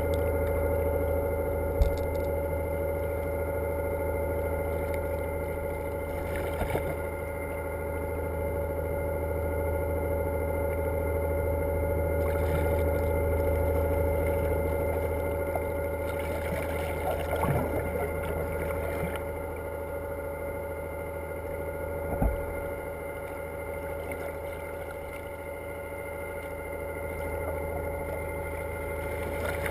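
Motorboat engine running at a steady pitch, with a few short sharp knocks.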